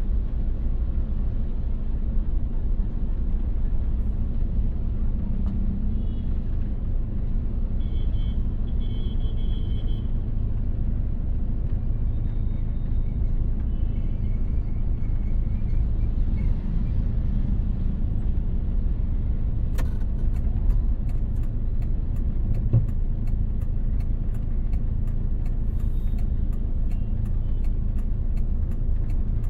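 Car on the move, a steady low rumble of engine and road noise heard from inside the car. About two-thirds of the way through, light sharp ticks start and repeat several times a second.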